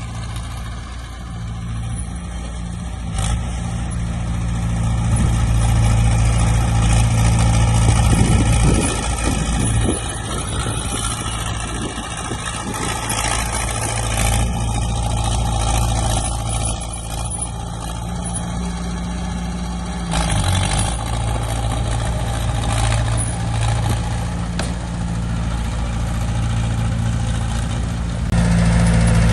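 Diesel engines of heavy earthmoving machines, dump trucks and a bulldozer, running steadily under load, the sound swelling and easing a few times.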